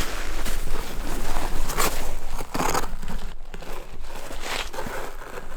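Close, irregular rustling and crinkling, with scattered crunchy scrapes, like material being handled or brushed against near the microphone.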